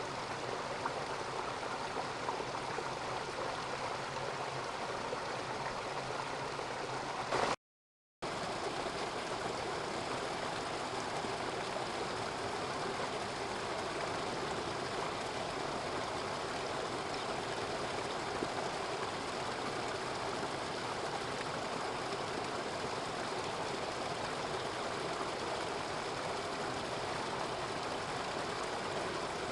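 Mountain stream rushing and gurgling over rocks, a steady even rush of water. It cuts out for about half a second a quarter of the way in, then carries on unchanged.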